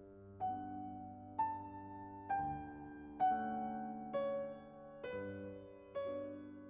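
Slow, gentle piano music: a melody of single notes struck about once a second over held chords.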